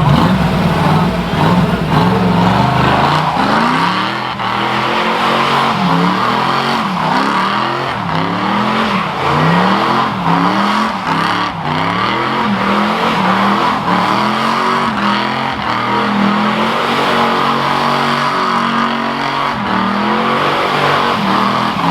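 A car doing a burnout: the engine revs up and down over and over as the throttle is pumped, over a steady hiss of spinning tyres.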